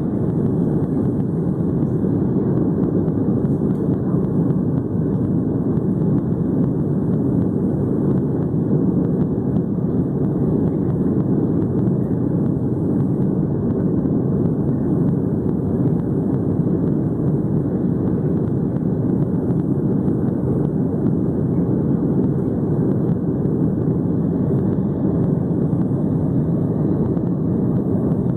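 Steady jet engine and airflow noise heard from inside the cabin of a Boeing 757 in flight, a low, even rumble without change.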